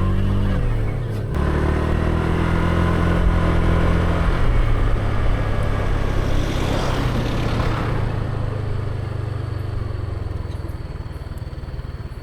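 A motor vehicle engine running steadily, its pitch shifting in steps, with a swell of rushing noise about six to eight seconds in that fades away.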